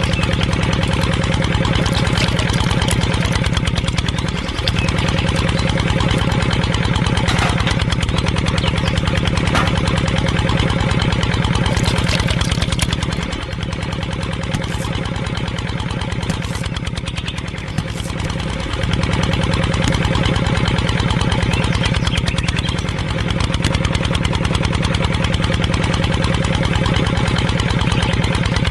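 Mini tractor's motor running steadily with a continuous low drone, briefly dipping in level and giving a short rising sweep in pitch a few times.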